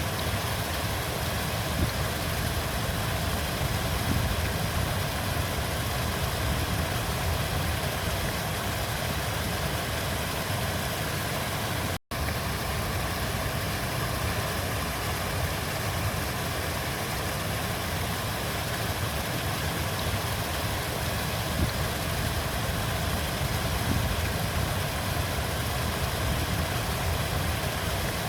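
River water flowing in a steady, unbroken rush, heaviest in the low end, with a brief cut to silence about twelve seconds in.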